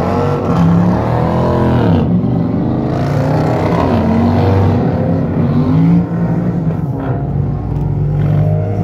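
Dodge Challenger engines revving hard during burnouts in tyre smoke, the pitch rising and falling again and again over a steady deep engine drone.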